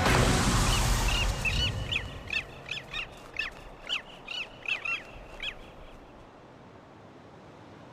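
Background music fades out, then a bird gives a quick series of about a dozen short, down-slurred, high calls over some four seconds before falling quiet.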